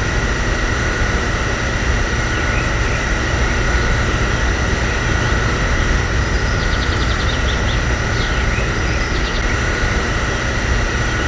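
A steady mechanical running noise with a constant high whine, and a brief run of faint rapid ticks a little past the middle.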